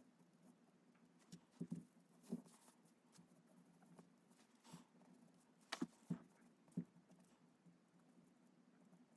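Quiet drawing on paper: a few soft taps and knocks, bunched about two seconds in and again about six seconds in, over a faint low hum.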